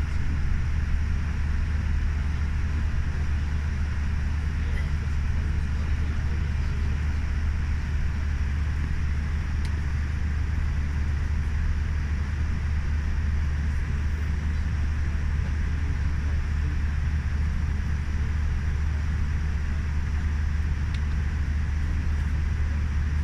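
Steady low rumble of cabin noise inside a Boeing 787 airliner, its engine and airflow noise holding at an even level.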